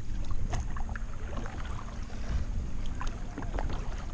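Kayak on open water: short, scattered splashes and drips of water around the hull and paddle over a steady low rumble.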